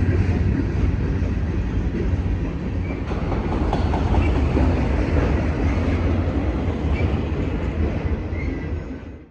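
A train rolling by on the rails, a steady low rumble of wheels and cars, cutting off abruptly at the end.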